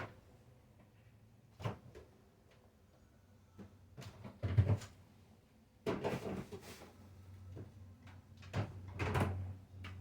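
Kitchen handling sounds: several separate knocks and clatters, the loudest about four and a half seconds in, with a longer rattling stretch around six seconds, like cupboard doors or cookware being moved.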